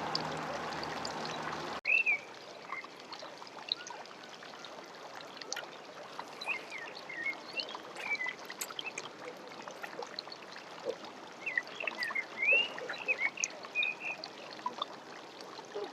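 Birds chirping and singing in scattered short calls over a steady background hiss. For the first two seconds a louder steady noise with a low hum covers it, then cuts off abruptly.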